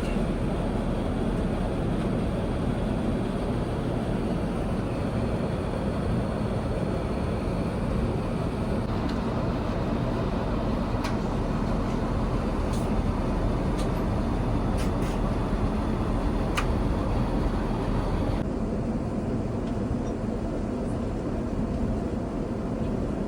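Steady roar of an Airbus A350's cabin in flight, engine and airflow noise heard from inside the cabin, with a few faint clicks.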